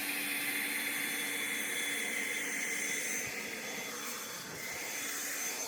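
Steady jet-engine whoosh with a faint high whine, standing in for the 'jet boat' running.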